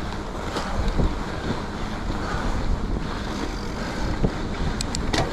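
Mountain bike riding along a groomed snow trail: wind buffeting the microphone over a steady rumble from the tires and bike, with occasional knocks and a few sharp clicks near the end.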